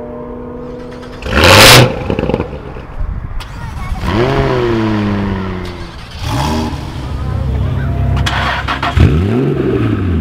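Sports car engines in a quick series of clips: a loud rush of engine noise a little over a second in, then an engine starting with a rising flare that falls back to a steady idle, and a sharp rev blip near the end.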